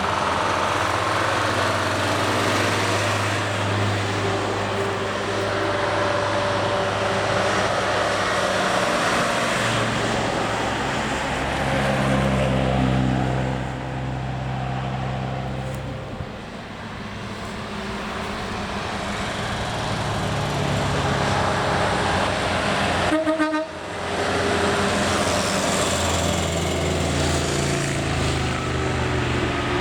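Engines of vintage Krupp trucks running and driving by, their engine pitch rising and falling as they pull away and pass, with a sudden break about three-quarters of the way through.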